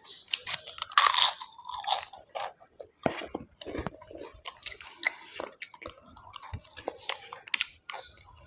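A person chewing and biting into food with crisp, irregular crunches and wet mouth sounds, loudest about a second in.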